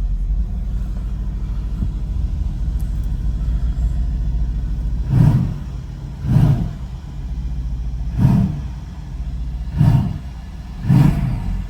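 2016 Mercedes-AMG E63 S wagon's twin-turbo V8 idling in sport mode, then revved in five short blips a second or two apart, each swelling up and falling back to idle.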